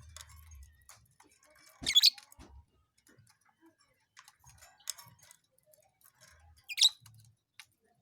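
Lovebird giving two short, sharp, high-pitched calls, one about two seconds in and one near the end, with faint scattered clicking between them.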